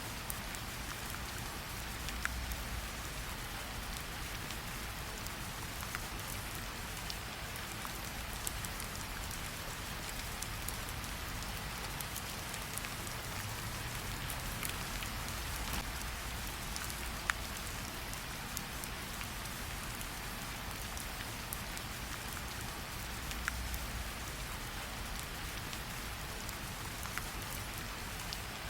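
Steady rain hiss with a few sharp pops scattered through it, typical of a campfire crackling under the rain. A soft low rumble swells up three times.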